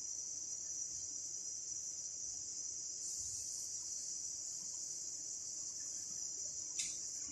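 A faint, steady, high-pitched trill with no break, and a short click near the end.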